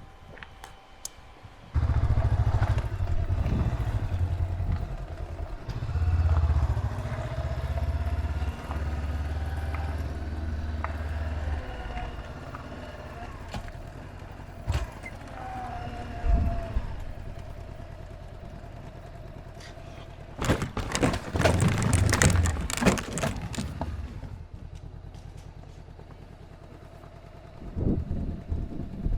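Honda CB500X parallel-twin motorcycle running with a steady low rumble that comes in abruptly about two seconds in and eases after about twelve seconds. A louder stretch of clattering knocks and rumble follows about two-thirds of the way through.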